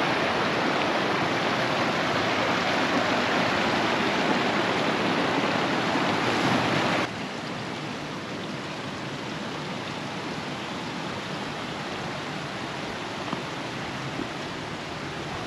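Mountain stream rushing steadily. The sound drops abruptly to a quieter level about seven seconds in, with a few faint ticks near the end.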